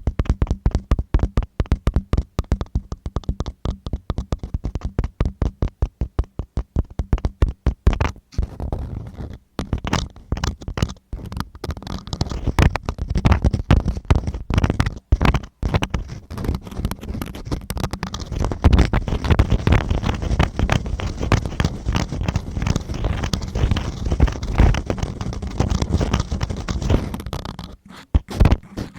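Close-up ear-cleaning sounds: a tool scratching and rubbing deep in a microphone ear, first as quick repeated strokes, then as denser, steadier scraping.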